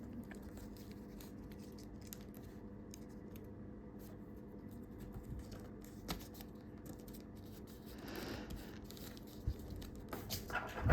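Faint handling of a sheet of A4 paper being folded by hand: soft rustles and light ticks as it is creased. A longer rustle comes about eight seconds in, and a few sharper taps near the end.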